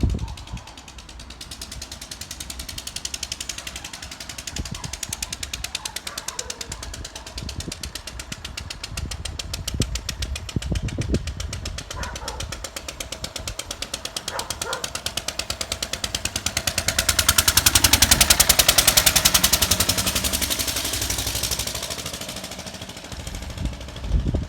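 Lister stationary engine running with a rapid, even beat of firing strokes. It swells louder about three-quarters of the way through, then eases back.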